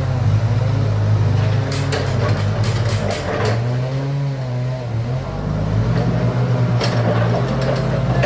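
An engine running, its speed rising and falling, with bursts of clattering knocks from about two to three and a half seconds in and again near seven seconds.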